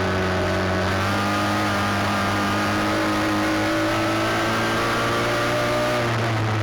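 Midget race car engines running at speed, several overlapping engine notes rising and falling in pitch as the cars work around the track.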